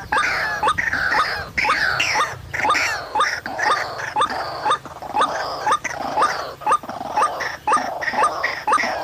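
White-breasted waterhen (ruak-ruak) calling continuously, a harsh repeated croaking with a short rising note about twice a second, the kind of call used as a lure to draw the birds into a trap.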